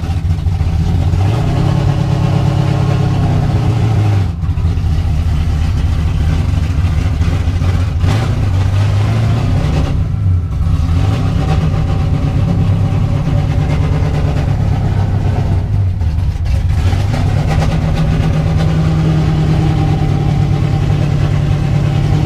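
Formula Drift race car engine running loud just after start-up, its pitch shifting up and down a few times with brief drops in level.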